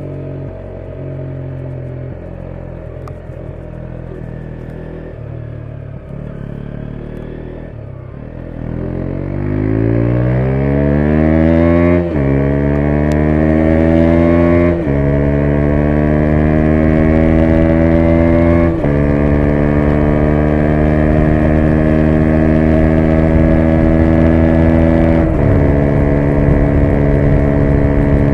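KTM 125 Duke's single-cylinder four-stroke engine runs low and steady, then accelerates hard from about eight seconds in. Its pitch climbs and drops back at four upshifts, each gear taking longer to climb as speed builds.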